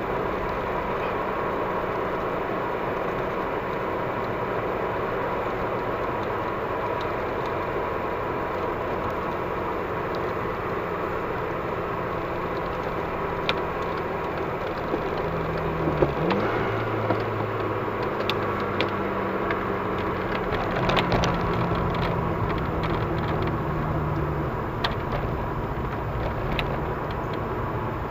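In-cabin sound of a VW Golf V GTI's turbocharged 2.0-litre four-cylinder running at low, steady revs with tyre and road noise as the car slows. About halfway through the engine note dips and jumps to a new pitch, and a few sharp clicks follow.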